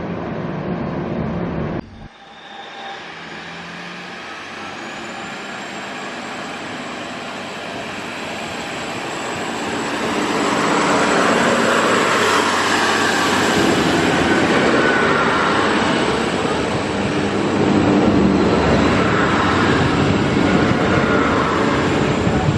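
Passenger train pulling out of the platform, its engine and wheel noise building over several seconds and then running loud and steady. A faint high whine runs under it.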